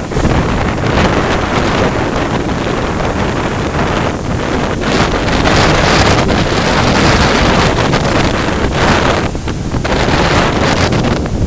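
Strong wind buffeting the microphone over the loud, continuous wash of ocean surf, in gusty surges, just after a typhoon has passed.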